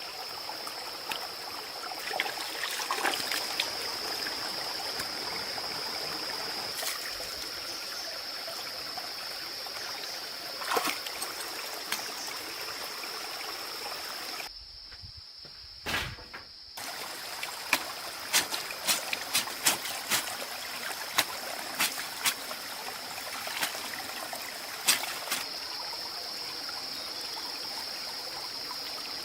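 Water steadily trickling, with a constant high-pitched tone over it. After a brief drop-out about halfway, a run of sharp taps and knocks comes at irregular intervals.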